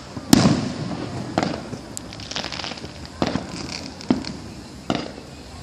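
Fireworks going off: a loud bang about a third of a second in, then four more bangs roughly a second apart, each trailing off, with light crackling in between.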